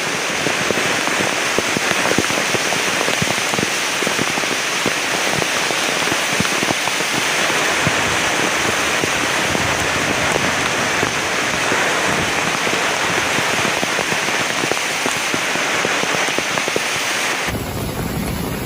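Heavy rain falling: a dense, steady hiss made up of countless small drop hits. Near the end it cuts off suddenly into a deeper, duller rushing noise.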